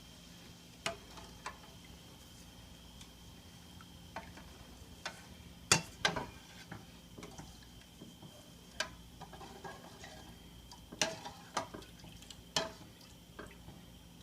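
Scattered, irregular clinks and knocks of a utensil against a cooking pot, a few with a short metallic ring, over a faint steady hum.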